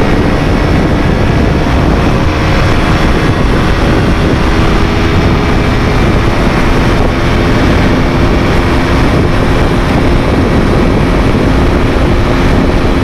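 KTM RC200's single-cylinder four-stroke engine held at full throttle near its top speed of about 135 kph, a steady unchanging engine note under heavy wind rush.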